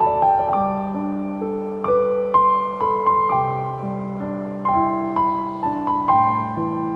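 Soft instrumental piano music: a slow, gentle melody of single struck notes over held low notes, each ringing and fading before the next.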